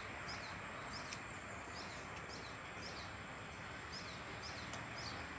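A small bird chirping over and over, short falling chirps roughly two a second, over a steady background hiss.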